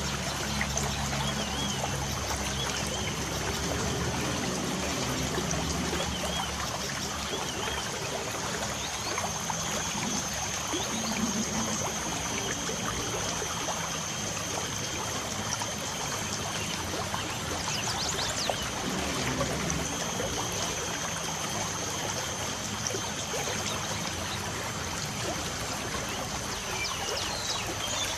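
Steady light rain with water trickling, under a thin, steady high-pitched tone, with a few brief bird chirps a little past the middle and near the end.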